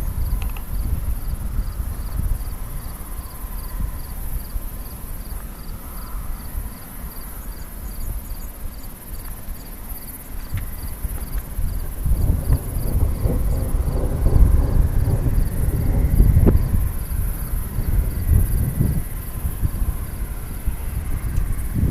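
Gusty wind rumbling on the microphone, growing stronger about halfway through, with an insect chirping in a steady, rapid high pulse behind it that fades under the wind.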